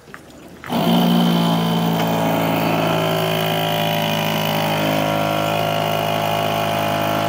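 Radical SR8's compact 2.7-litre V8, built from two Suzuki Hayabusa engine banks, fires up suddenly about a second in and settles into a steady idle.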